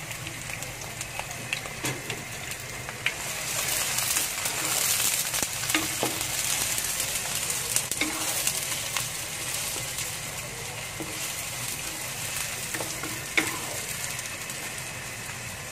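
Lemongrass, onion and ginger sizzling in hot oil in a wok as they are stirred, with scattered clicks of the utensil against the pan. The sizzle swells a few seconds in and then settles back.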